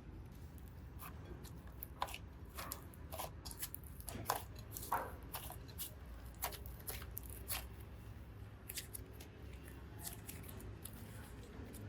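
Hands working modelling clay, making scattered small clicks and crackles at an irregular pace, with a few sharper ones about two seconds in and again around the middle.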